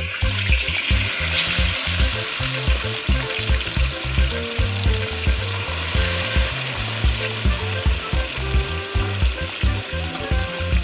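Whole chili-coated fish frying in deep hot oil in a large wok: a loud, dense sizzle that starts suddenly as the fish goes into the oil. Background music with a steady beat plays underneath.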